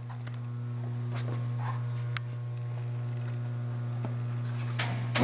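LeBlond Makino gearhead engine lathe's 10 hp electric main motor running with a steady low hum, building up over the first second or so, with a few faint clicks.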